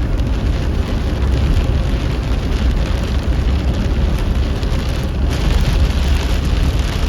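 Rain and a steady low rumble of wind and road noise heard inside a car with its windows down.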